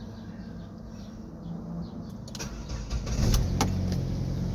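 Ford Escape's 2.3-litre four-cylinder engine being started: the starter turns it over and it catches about three seconds in, then runs steadily. This is the first start on a newly replaced fuel pump, fitted to cure hard starting and stalling from fuel starvation.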